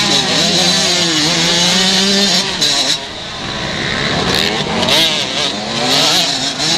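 125 cc motocross bike engines racing, their pitch climbing and dropping as the riders throttle on and off, with a brief dip about three seconds in.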